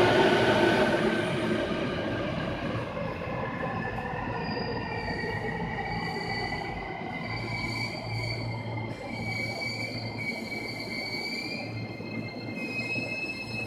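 JR Takasaki Line electric commuter train braking into a station. Its running noise fades as it slows, with the motor whine falling in pitch. Then high, steady squeals from the brakes and wheels as it comes to a stop.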